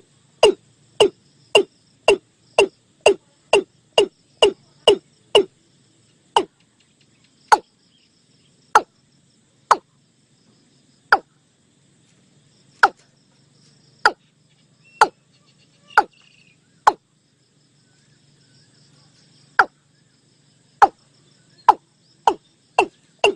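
A bird repeating a short, sharp call note, each note falling in pitch. The notes come about twice a second at first, then slow to an irregular spacing with a pause of a few seconds, and quicken again near the end.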